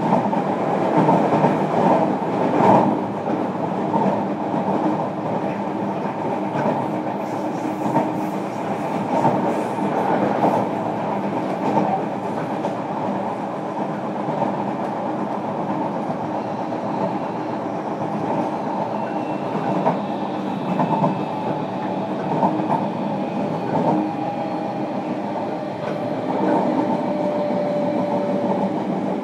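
Running noise heard inside a JR Kyushu 305 series electric train's motor car as it travels at speed: a continuous rumble of wheels on rail, with a steady hum and occasional short clacks.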